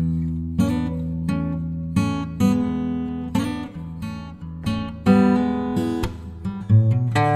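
Background music: acoustic guitar strumming chords, a fresh strum roughly every two-thirds of a second.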